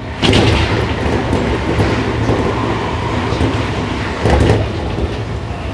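Seibu 6000 series electric train running at speed, heard from inside the car: wheels on rails with a steady rumble. The noise jumps suddenly louder a quarter second in, and swells again briefly about four seconds in.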